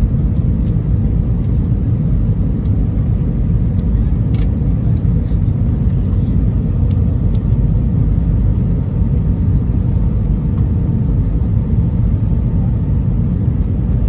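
Steady low rumble of engine and airflow noise in the cabin of an Airbus A320 airliner on descent, with a faint click about four seconds in.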